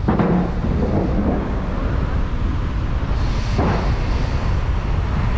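Steady low rumble of a moving vehicle with wind buffeting the microphone, and a few brief whooshing gusts, one at the start and one about three and a half seconds in.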